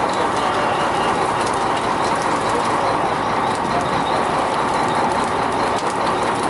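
A fishing boat's engine running steadily: a loud, even mechanical noise with a faint rattling clatter.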